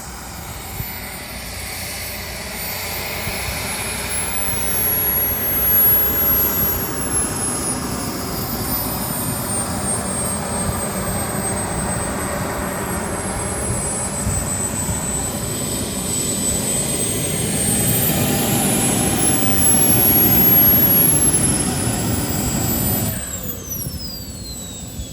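JetCat 300 Pro turbine of a BVM Desperado RC jet: a steady jet roar with a high whine that rises and falls in pitch, loudest about six seconds in and again around twenty seconds. Near the end the roar drops off suddenly and the whine falls away in pitch.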